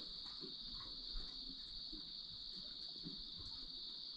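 A night chorus of crickets, a steady high-pitched trill that never breaks, with faint small ticks beneath it.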